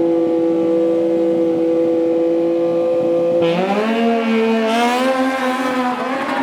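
Sport-bike engine held at steady high revs on the start line, then about three and a half seconds in the pitch drops suddenly as it launches and climbs again as it accelerates away down the drag strip, with another shift near the end.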